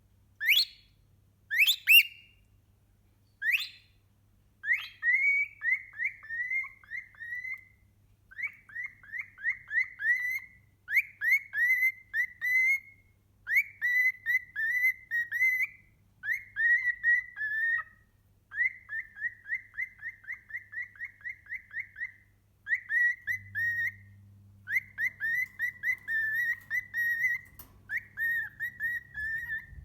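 Cockatiel whistling: three sharp rising whistles in the first few seconds, then phrases of quick repeated chirping notes, several a second, in runs of one to two seconds with short gaps.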